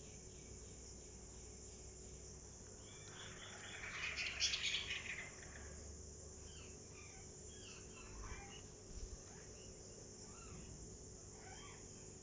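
Paper rustling as junk journal pages are handled and turned, one louder crackly rustle about four seconds in, over a faint steady high hiss and scattered faint chirps.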